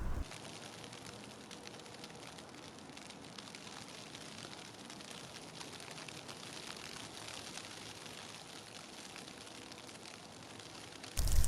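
Falling snow in a blizzard, a steady fine hiss with many tiny ticks and little wind. Near the end it cuts suddenly to loud gusting wind buffeting the microphone.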